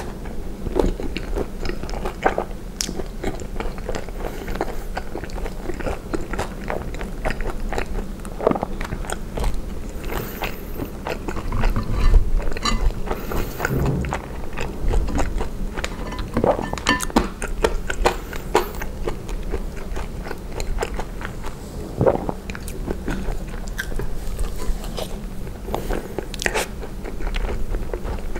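Close-miked chewing and biting of poutine (gravy-covered french fries and cheese curds), with many short sharp mouth clicks and smacks.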